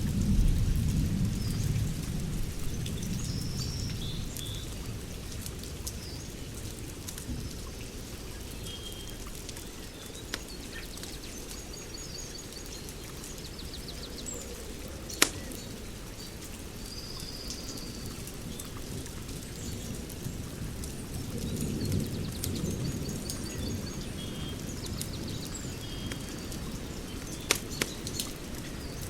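Fire crackling in a fire pit: a steady low rumble of the flames, swelling near the start and again about two-thirds of the way in, with a few sharp pops, the loudest about halfway. Faint bird chirps sound now and then.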